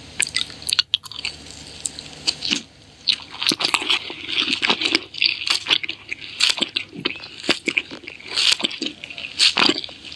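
A person chewing and biting food close to the microphone, with irregular crunchy and wet clicking mouth sounds throughout.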